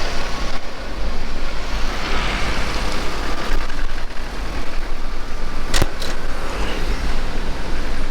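Street traffic noise with motor vehicles passing and a steady low rumble. Two sharp electronic crackles come just before six seconds in, from the camera's unshielded mic adapter picking up radio interference.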